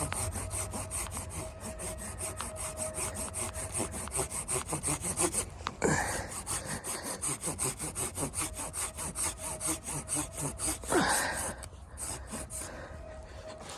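Hand saw cutting through wood with fast, even strokes, broken by brief rubbing sweeps about six and eleven seconds in.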